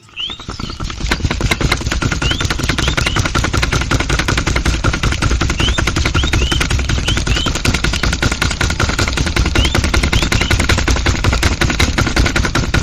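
A small engine running steadily with a fast, even knocking rhythm.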